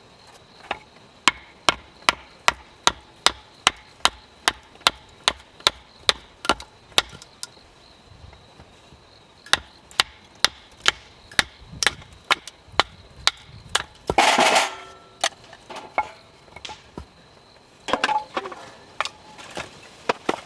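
Rapid repeated hard striking knocks, about two to three a second: a long run, a short pause, then a second run. A brief louder scraping rustle comes just after the middle, and a few scattered knocks near the end.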